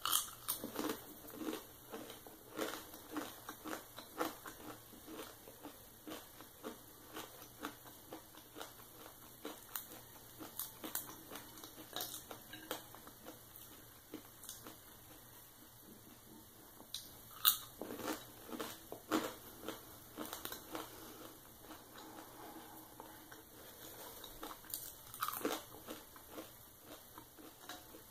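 Close-miked eating sounds: bites into bacon and steady chewing, with irregular crunches and wet mouth clicks. A few sharper clicks stand out, one about two-thirds of the way in and one near the end.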